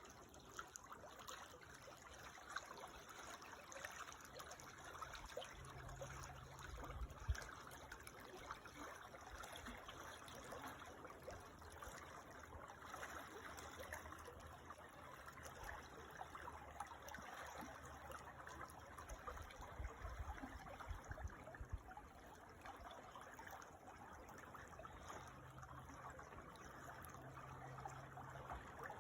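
Small creek trickling and babbling steadily, faint, with a low rumble coming and going and one brief thump about seven seconds in.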